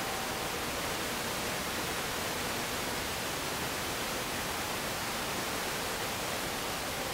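Steady hiss of static with faint steady tones in it and no change in level; no engines or voices stand out.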